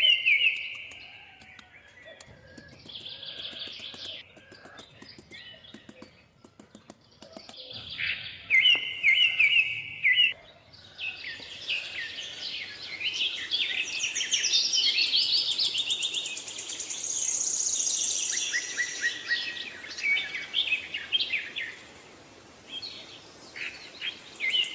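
Birds chirping and singing: short repeated high trilled phrases at first, then several overlapping songs that build into a busier chorus through the middle and thin out near the end.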